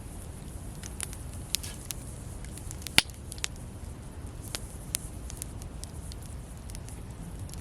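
Campfire crackling: scattered sharp pops and snaps over a steady low rush, with one loud pop about three seconds in.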